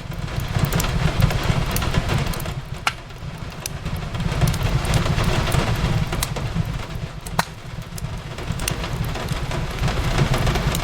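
Fireplace crackling, with scattered sharp pops, over the steady hiss of rain on a window and a low rumble underneath.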